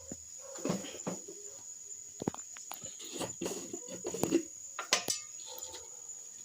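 Irregular knocks, clicks and short scrapes of a spoon and cooking pot as whole spices are added to ghee and oil for biryani rice, over a steady thin high whine.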